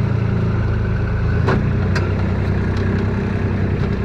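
Kubota RTV utility vehicle's engine running as it drives, its note changing about a second and a half in, with two sharp knocks around then.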